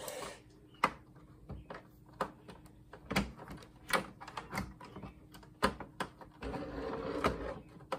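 Scattered sharp clicks and knocks of tools and hands working on the plastic casing of an old monitor being taken apart, with a short stretch of scraping and rubbing near the end.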